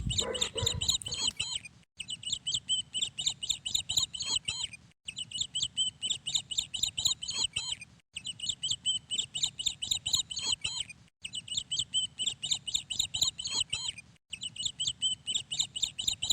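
Rapid, high-pitched bird chirping, many chirps a second, in stretches of about three seconds broken by short, evenly spaced silent gaps, as if the same short bird recording repeats.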